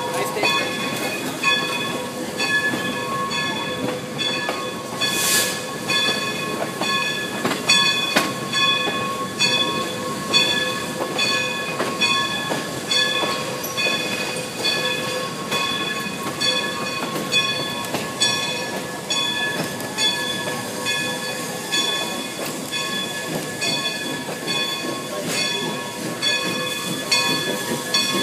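Passenger train riding along the rails, heard from aboard a coach: a steady rumble with repeated clicks of wheels over rail joints and steady high ringing tones that keep cutting in and out. A short burst of hiss comes about five seconds in.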